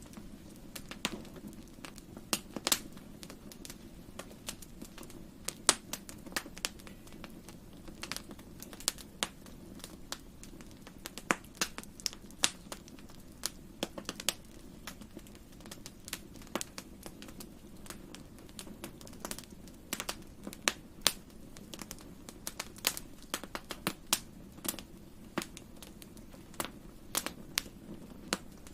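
Wood fire burning in a fireplace: irregular crackles and sharp pops, several a second, over a soft steady low rustle of the flames.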